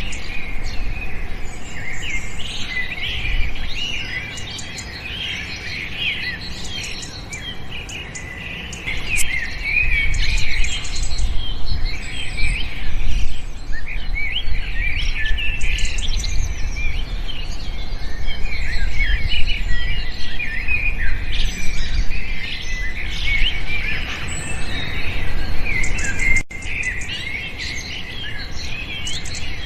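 Many small birds chirping and twittering together in a dense, overlapping chorus. A low rumble sits underneath and grows louder about a third of the way in.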